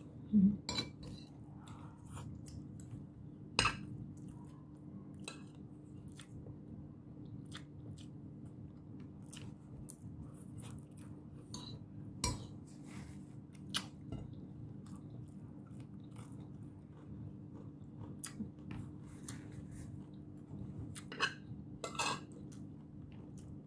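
Chewing and biting sounds of a person eating squid adobo and rice, with a spoon and fork clicking against a plate from time to time. A steady low hum runs underneath.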